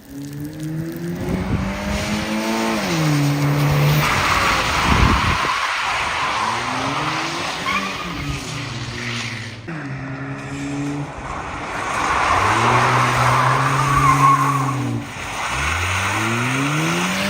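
Car engine revving, its pitch climbing and dropping several times with a steep climb near the end, while the tyres squeal as the car slides.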